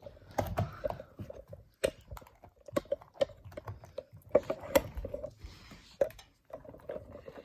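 Irregular clicks and taps with a few sharper cracks, like something small being handled or gnawed.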